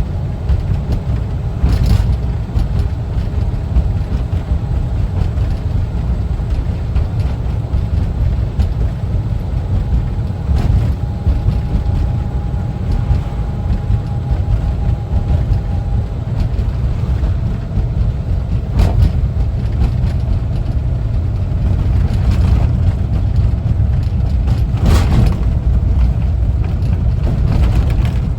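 Air-cooled Type 4 flat-four engine of a 1974 Volkswagen Westfalia camper bus running steadily while driving, a low rumble with road noise. A few sharp knocks or rattles come through, and a faint steady whine is heard for about five seconds in the middle.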